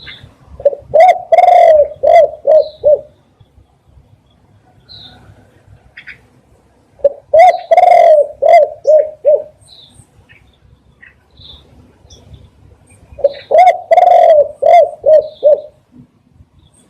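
Spotted dove cooing three times. Each song is a quick run of about seven low, arched coos with a longer note in the middle. Faint, short high chirps of small birds are heard between the songs.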